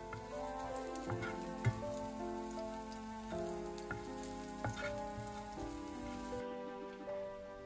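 Minced garlic sizzling in hot oil in a nonstick saucepan, stirred with a wooden spoon, with a few sharp clicks from the spoon; the sizzle cuts off about six seconds in. Background music with sustained, stepping notes plays throughout.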